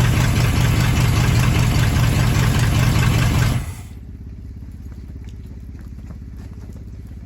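Chevy 350 small-block V8 in a 1980 K30 pickup running steadily just after its first start. About three and a half seconds in, the sound drops abruptly to a much quieter, steady running.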